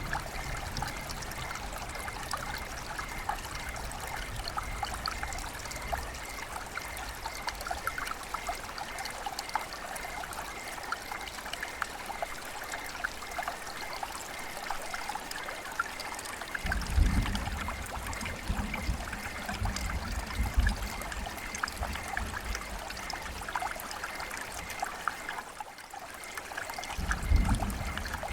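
River water flowing with a steady trickling, splashing sound. Bursts of low rumble come in about two-thirds of the way through and again near the end.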